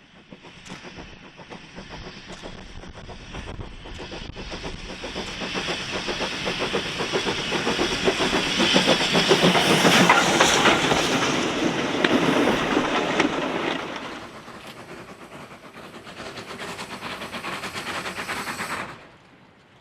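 A steam-hauled train passing close by, its wheels clattering rhythmically over the rail joints. It grows louder to a peak about ten seconds in, drops back, swells again and cuts off suddenly near the end.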